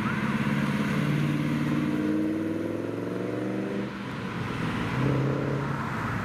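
A car's engine accelerating away, its pitch rising for a couple of seconds and then dropping sharply about four seconds in at a gear change before pulling again.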